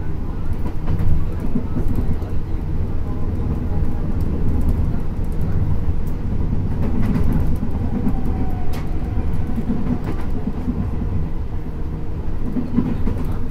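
A Tokyu 8500 series electric commuter train running, heard from inside the car: a steady rumble of wheels on track with scattered sharp clicks from rail joints. Around the middle, a faint tone slides slightly lower.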